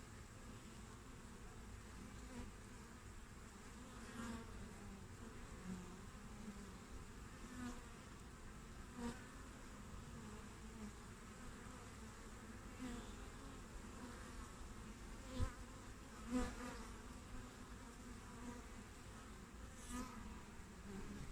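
Honeybees buzzing at a hive entrance: a steady low hum from many bees, with brief louder buzzes now and then, the two loudest a little past the middle.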